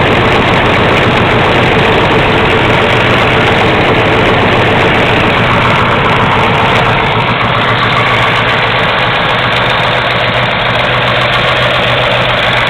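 Chevrolet 350 small-block V8, built to LT1 spec with a solid-lifter cam and a Holley carburetor, idling steadily on an engine stand.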